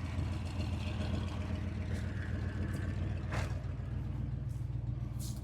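A truck engine idling steadily, with one sharp knock a little over three seconds in.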